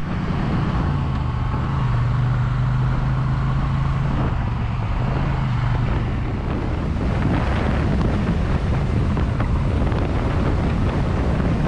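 Triumph Bonneville parallel-twin engine running at a steady cruise, with wind rushing over the microphone.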